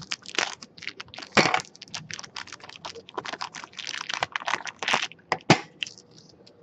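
Crinkling and crackling plastic wrapper as a trading-card pack is opened and the cards are handled. An irregular run of small clicks and crackles, with sharper snaps about a second and a half in and twice near the end.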